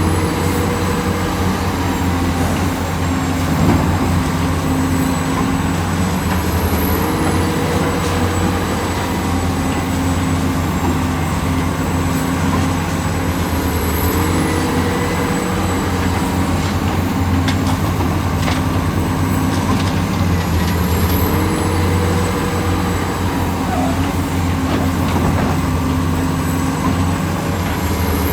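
Heavy diesel engine of construction machinery running steadily under load, with a pattern of short rising and falling pitch sweeps that repeats about every seven seconds.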